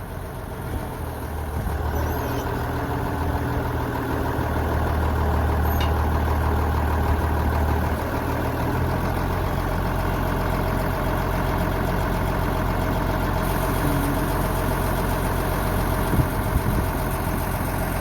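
An engine running steadily at idle; its low drone shifts about halfway through and then holds steady.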